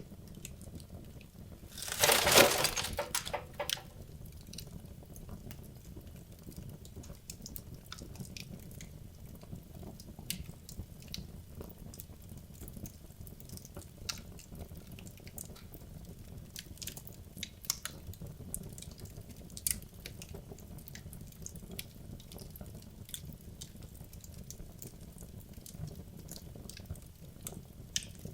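Wood logs burning in a fireplace, crackling with scattered sharp pops over a low steady rush of the fire. About two seconds in, a loud flurry of crackles and pops lasts a second or so, then single pops carry on every second or two.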